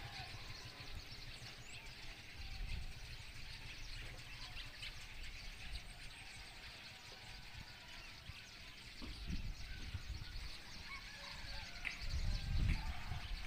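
Small birds chirping sporadically over a faint outdoor background, with a low rumble on the microphone swelling about nine seconds in and again near the end.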